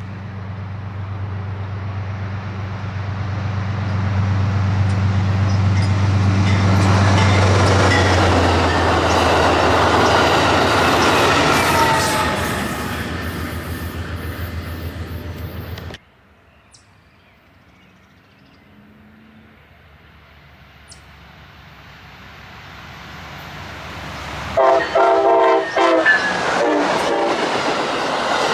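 A diesel-powered freight train rolling past, the locomotive's engine humming steadily under wheel and rail noise that swells and fades. After a sudden cut, another train draws closer and sounds its multi-note air horn in two short blasts near the end, its rail noise growing.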